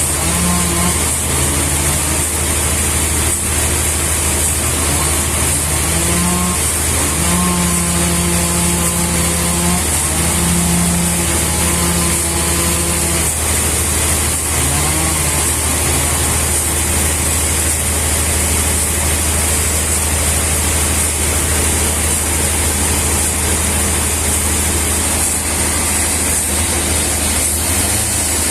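A machine engine running steadily with a deep hum and a high hiss, plus a pitched tone that steps up and down through the first half.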